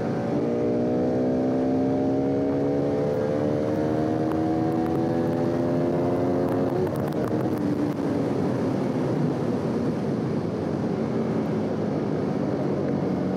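Bajaj Pulsar RS200's single-cylinder engine pulling in sixth gear, its note rising slowly under steady acceleration, with wind and road rush. About seven seconds in, the engine note drops away as the throttle closes, leaving wind and tyre noise.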